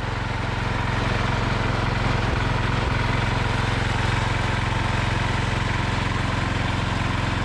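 MTD 990 garden tractor engine running steadily just after starting, its level climbing and settling in the first second. It has a cleaned carburettor that is about to be adjusted to cure backfiring.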